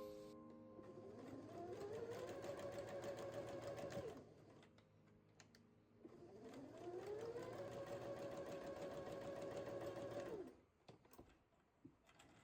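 Electric sewing machine stitching in two runs, each speeding up over about a second, running steady with a rapid needle patter, then stopping; the second run starts about six seconds in.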